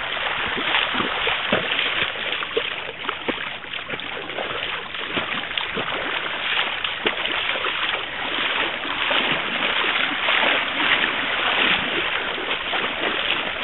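Water splashing and sloshing steadily as a bicycle is ridden through a flooded, muddy road.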